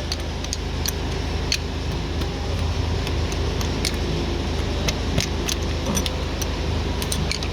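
Light metallic clicks and clinks of hand tools on the valve bridge adjusting screw of a Mitsubishi Fuso 6M60 diesel's valve train, during a valve clearance adjustment. The clicks come at irregular times over a steady low background hum.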